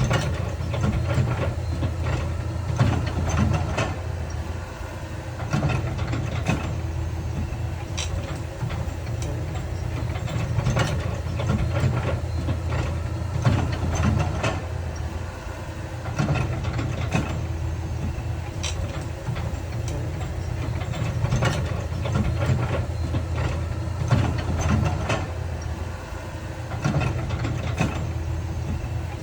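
Heavy earthmoving machinery at work: a diesel engine runs steadily, with frequent sharp clanks and knocks of metal and rock throughout.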